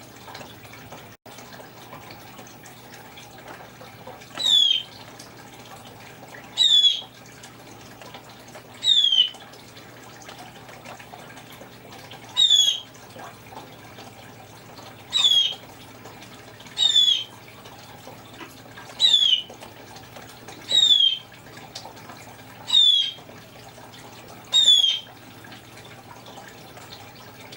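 Congo African grey parrot mimicking a blue jay's call: ten loud, short cries, each sliding down in pitch, repeated about every two seconds.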